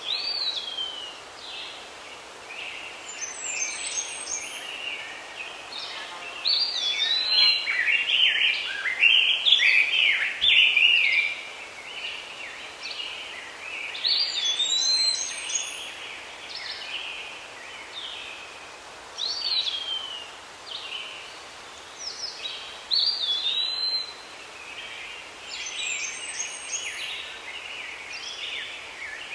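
Several birds singing and calling over a steady outdoor hiss. A high, slurred whistled phrase repeats every few seconds among other chirps, and the singing is busiest about a third of the way through.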